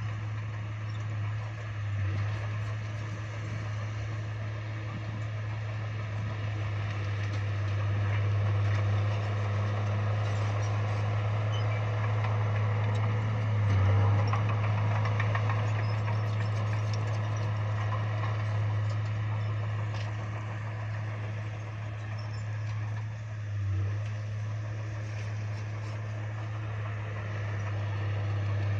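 Bulldozer's diesel engine running steadily with a low drone that swells briefly a few times as it works.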